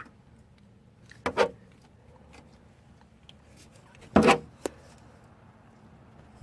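Two short knocks about three seconds apart, with a light click just after the second, as a thin metal strip is handled and bent around a coilover spring.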